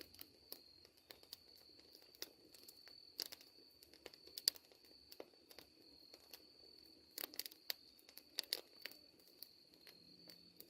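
Faint scattered crackles and sharp clicks, some in small clusters, over a steady thin high-pitched tone.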